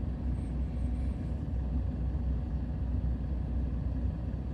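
Steady low rumble of a vehicle heard from inside the cabin, most of it in the bass, with no sharp events.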